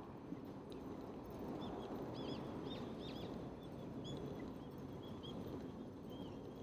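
A small bird chirping: a quick run of short, arched high notes about one and a half seconds in, then a few more spaced chirps. Underneath is a steady low rushing noise.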